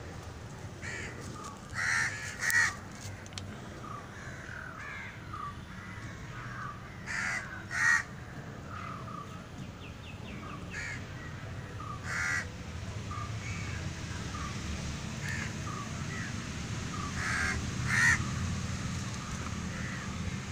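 Birds calling, with loud, harsh, caw-like calls, mostly in pairs, about 2, 8, 12 and 18 seconds in, and softer short calls in between, over a steady low hum.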